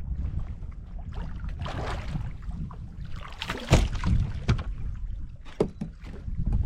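Wind rumbling on the microphone over a kayak on open water. Water splashes twice, and a few sharp knocks sound against the kayak, the loudest in the middle.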